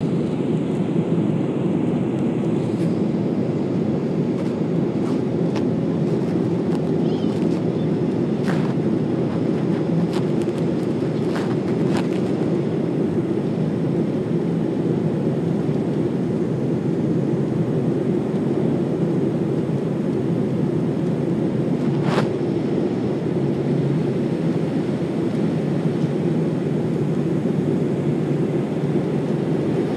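Steady airliner cabin noise in flight, a dense low rumble of engines and airflow. A few short sharp clicks or rattles sound over it, most about a third of the way in and one later on.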